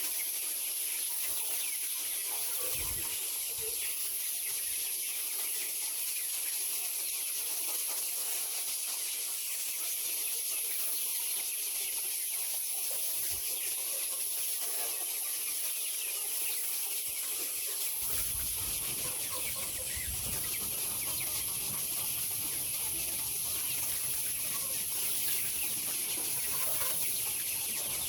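A flock of chickens in a poultry house clucking continuously over a steady hiss, with a low rumble joining about two-thirds of the way through.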